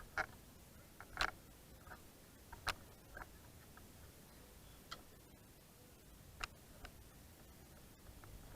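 Scattered short clicks and light taps at irregular intervals over a faint background, with a sharper, louder click at the very end.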